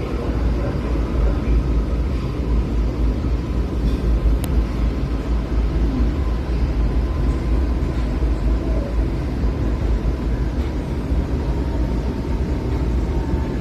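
Steady low rumble of an LA Metro D Line subway car running through the tunnel, heard from inside the car, with a faint steady whine above it.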